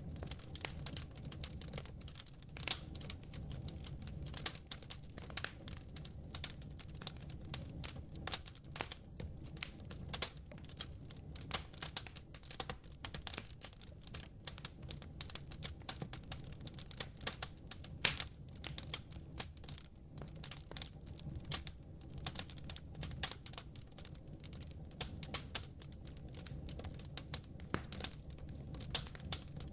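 Wood fire in a fireplace crackling, with dense, irregular sharp pops and one louder pop about eighteen seconds in, over a steady low rumble.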